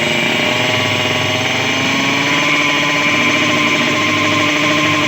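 Drag-racing motorcycle engine running steadily at raised revs while being tuned, its pitch rising slightly in the first couple of seconds and then holding.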